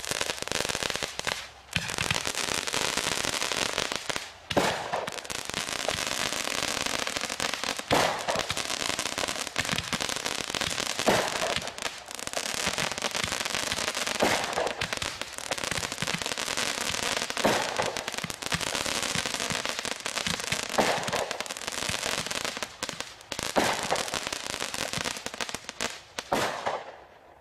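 Sky Blitz 56-shot Roman candle barrage firing rapidly: a dense, continuous run of shots and crackling stars, with a louder shot about every three seconds. It stops suddenly at the end.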